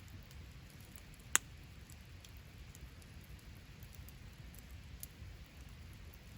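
Campfire burning with scattered faint crackles and one sharp, loud pop about a second in, over a low steady rumble.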